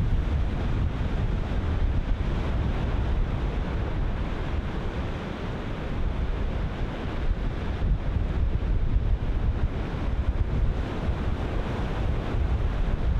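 Ocean surf breaking and washing in continuously, with wind buffeting the microphone in uneven low rumbles.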